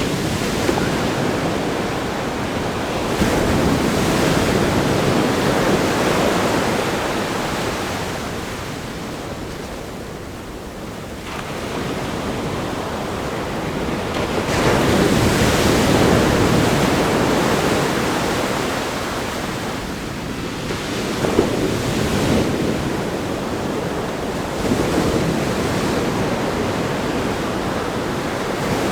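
Ocean waves breaking on a sandy beach and against a rock groin, a continuous rush of surf that swells with each set of breakers and eases in between, with a quieter lull about a third of the way through.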